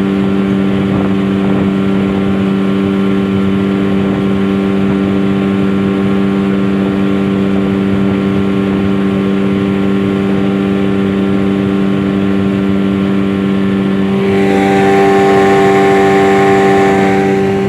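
Hangkai 9.9 hp outboard motor running steadily at full throttle under a boat, its pitch holding constant. The revs are held down to about 4200 rpm at the limit by a heavy Chinese 12-pitch propeller. A few seconds before the end it grows louder for a while, with an added hiss.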